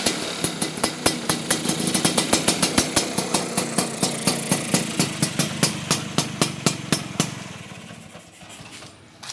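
Vespa scooter engine idling, its exhaust giving sharp, even pops about five a second, then stopping about seven seconds in.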